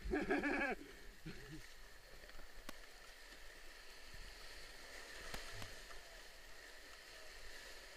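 Steady rush of river water heard from a moving canoe, with a few faint sharp clicks. A brief voice is heard in the first second.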